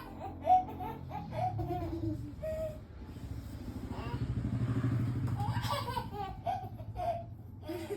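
A small child laughing in short, high-pitched bursts. A low, pulsing rumble swells and fades in the middle.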